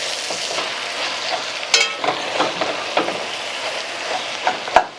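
Ground chuck sizzling as it browns in a hot pot, with a utensil stirring it and a few sharp clicks against the pot.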